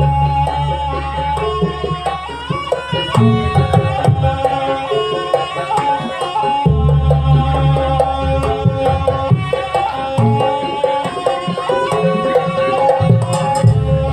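Live Javanese jaranan ensemble music: hand drums (kendang) play busy rhythmic patterns under a held melodic line, with deep low booms in several stretches.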